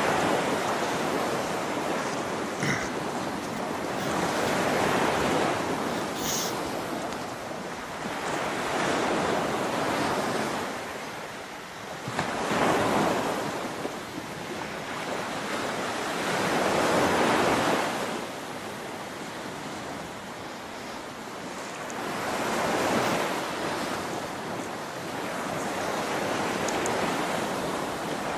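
Outdoor rushing noise, without tones, that swells and fades in slow surges every four to five seconds.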